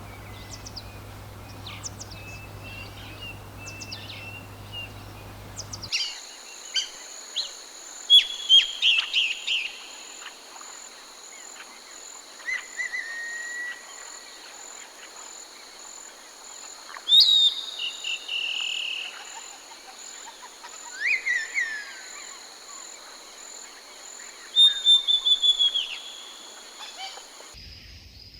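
Forest birds calling and singing: short chirps, quick trilled phrases and a few whistled notes that slide downward. From about six seconds in, a steady high-pitched drone runs behind them.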